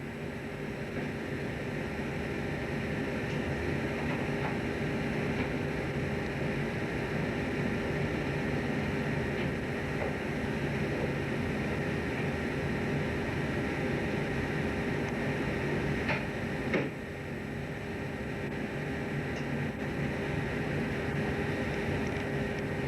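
Steady droning hum of a fishing boat's engine and machinery, with several steady tones running through it. A couple of short clicks come about two-thirds of the way through, after which the hum is a little quieter.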